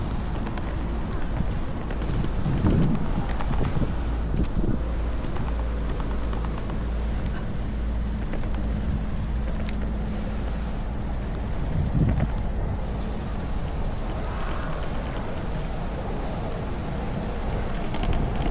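Strong wind buffeting the microphone over steady outdoor city noise, with stronger gusts about three seconds in and again around twelve seconds.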